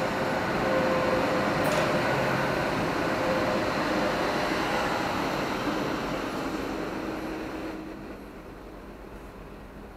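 Deutsche Bahn ICE high-speed train pulling out of the station, its cars rolling past close by with a steady rumble and a faint held tone. The sound fades away about eight seconds in as the rear of the train moves off.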